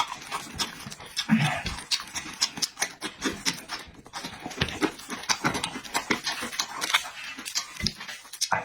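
A person eating: chewing and lip-smacking, with a dense run of irregular short clicks and an occasional low grunt or breath.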